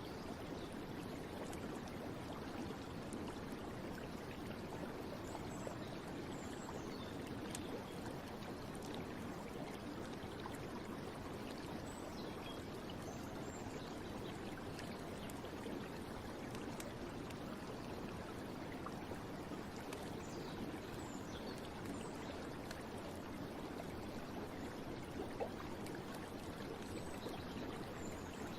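Steady running water, as of a flowing stream, an even unbroken rush.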